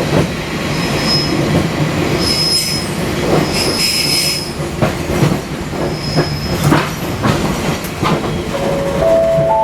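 Fukui Railway 200 series train running on rails, its wheels giving several short, high-pitched squeals over the steady rumble, with occasional knocks from the wheels over the track. Near the end a steady pitched tone comes in.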